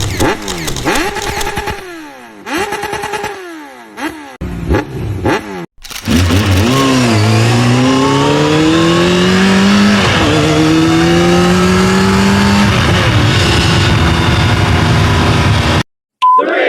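Motorcycle engine revving in short bursts with falling pitch for the first few seconds, then accelerating hard with its pitch climbing, dropping at a gear change about ten seconds in and climbing again, before cutting off abruptly near the end.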